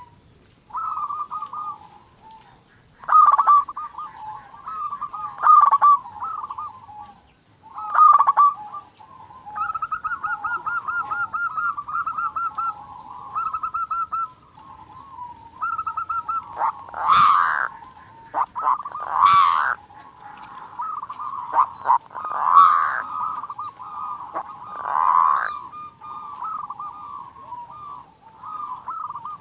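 Zebra dove (perkutut) cooing: repeated coos, with a quick even run of notes about ten seconds in and several louder, noisier bursts in the second half.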